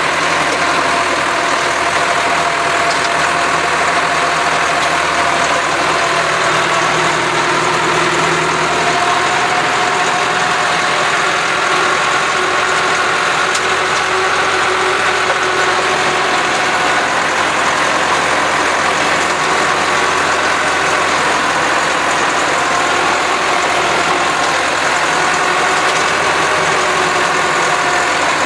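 Massey Ferguson tractor engine running steadily while working a field, with a slight shift in engine pitch about nine seconds in.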